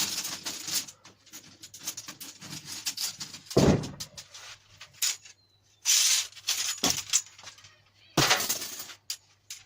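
Scattered knocks and clatter of lengths of hollow square steel tube being handled. There are heavier thumps about three and a half seconds in and near the end, and a scraping rush around six seconds in.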